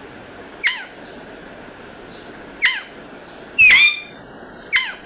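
Green parrot giving four short, sharp squawks at uneven gaps; the third, about three and a half seconds in, is the loudest and longest.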